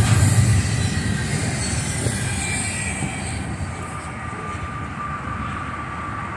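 Double-stack intermodal freight cars rolling by on the rails, a steady rumble of wheels on track that grows fainter as the end of the train pulls away.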